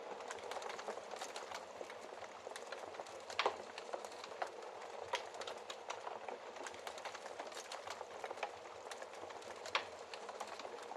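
Wood fire crackling, a steady soft hiss full of small sharp snaps, with two louder pops, one about a third of the way in and one near the end.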